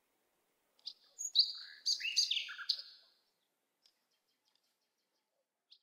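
A small songbird singing: a quick run of high chirps and short gliding notes lasting about two seconds, then a few faint chirps near the end.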